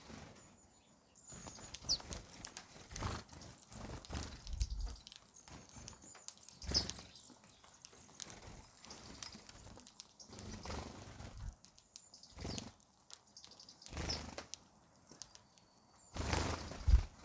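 Small birds feeding: wings flapping in short irregular bursts, with a few brief high chirps. The loudest flurry comes near the end.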